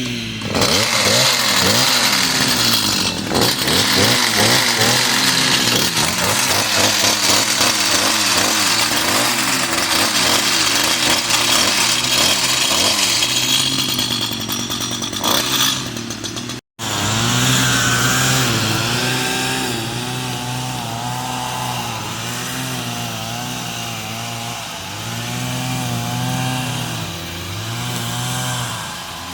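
Stihl petrol pole pruner's two-stroke engine running and revving up and down, loud for the first half. After a brief dropout about 17 seconds in it runs quieter, still rising and falling in pitch.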